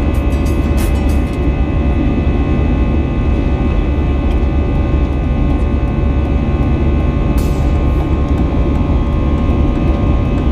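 Steady drone of an Airbus A320neo's jet engines heard inside the passenger cabin: a heavy rumble with several steady tones over it, and a brief hiss about seven seconds in.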